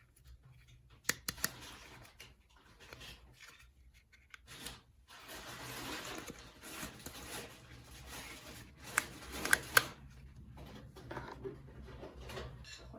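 Hands handling small plastic toy pieces: a few sharp clicks about a second in and several more about nine seconds in, with a stretch of rustling in between.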